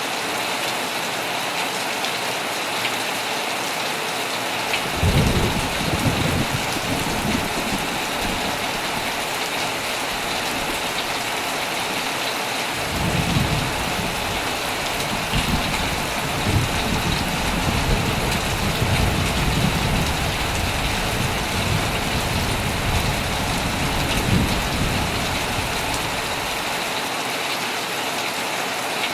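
Heavy rain falling steadily on a tent, with thunder rumbling about five seconds in and again in a long roll from about thirteen seconds to near the end.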